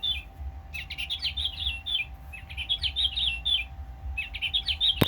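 Recorded house finch song played from the sound box of an Audubon plush house finch toy: a short warbling phrase repeated about every second and a half, with a sharp click at the very end.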